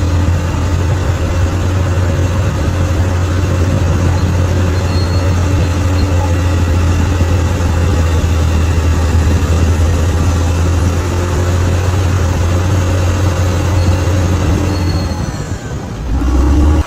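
Bulldozer's diesel engine running steadily with a deep, low hum. Near the end the sound dips, shifts to a lower tone and then cuts off abruptly.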